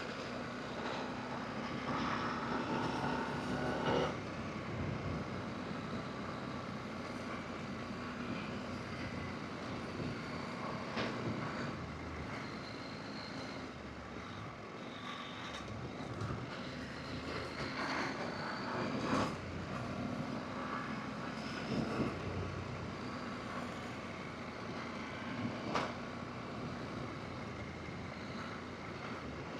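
Adventure motorcycle engine running while riding a dirt forest road, its pitch rising and falling with the throttle over a steady rush of noise. Several sharp knocks come a few seconds apart.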